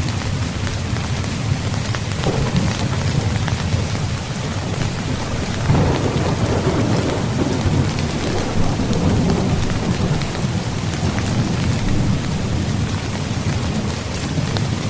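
Steady rain falling on a tent's fabric, with a low rumble of thunder swelling about six seconds in.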